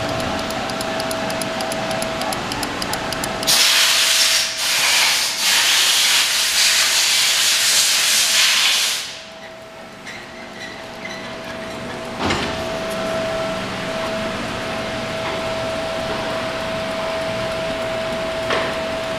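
A steady background hum with a faint constant tone. About three and a half seconds in, a loud hiss starts, lasts about five seconds and cuts off suddenly. Two light knocks follow later.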